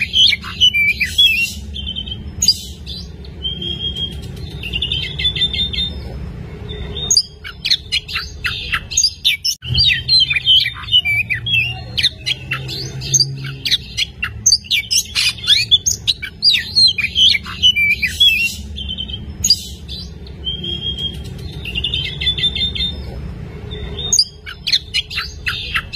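Oriental magpie-robin (kacer) singing loudly and continuously: a fast, varied run of sharp whistles, chirps and trills, with brief pauses about seven and nine and a half seconds in. A steady low hum lies underneath.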